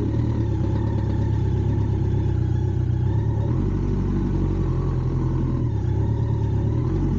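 Motorcycle engine running steadily at low revs, its pitch shifting slightly a couple of times.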